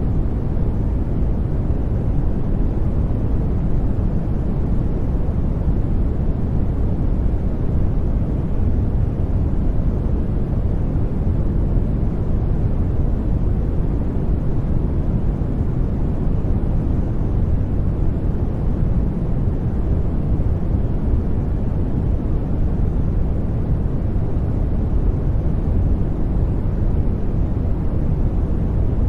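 Steady sleep white-noise track, even and unchanging, with most of its weight in the low end and soft highs.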